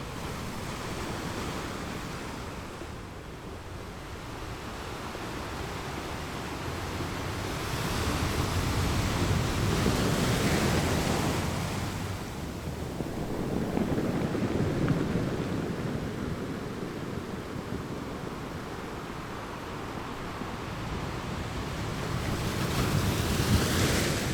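Ocean waves breaking on rocks: a steady wash of surf that swells three times into louder breakers, the last near the end.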